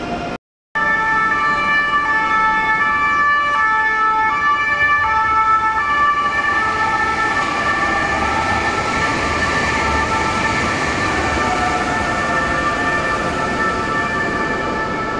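Electric regional trains running across the station switches: several steady, high-pitched squealing tones over the rumble of the wheels, and the rolling noise grows after about six seconds as a train comes nearer. The sound drops out for a moment near the start.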